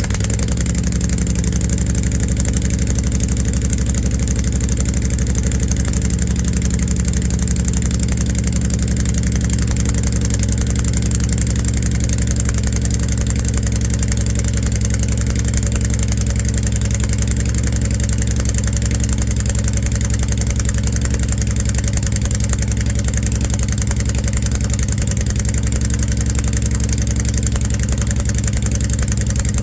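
2016 Honda Fury 1300's V-twin engine idling steadily on a cold start after about two months of sitting.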